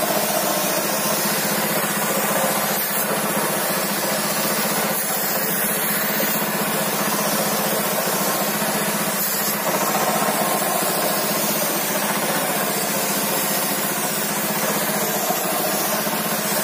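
Steady hiss of a spray gun applying finish, over the constant hum of an air compressor running.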